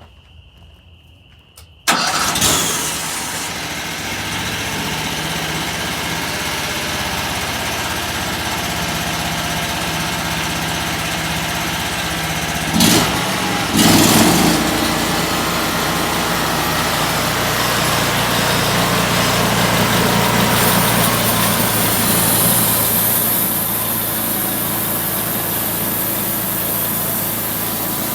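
Homemade sawmill's small engine, driving it through a double V-belt, starting up suddenly about two seconds in and then running steadily. There are two brief louder surges around the middle, and more high hiss in the last third.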